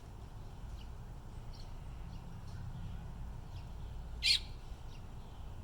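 Baby robin chirping, calling for its parent: faint short high chirps scattered throughout and one loud sharp chirp about four seconds in, over a low steady rumble.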